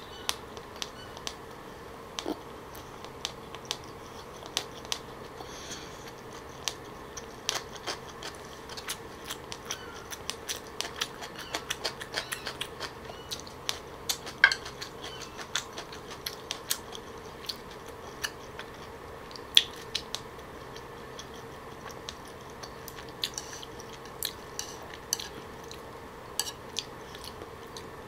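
Close-miked mouth sounds of someone chewing kimbap topped with soy-marinated raw salmon: irregular wet clicks and smacks over a faint steady hum.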